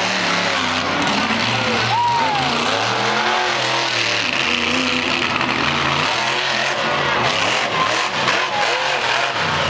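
Monster truck engine revving hard and repeatedly, its pitch climbing and dropping as the throttle is worked.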